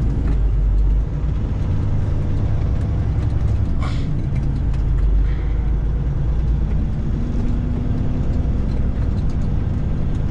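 Cat 3406E diesel engine of a Freightliner FLD120 running under way, a steady low drone heard from inside the truck's cab, with a brief sharp noise about four seconds in.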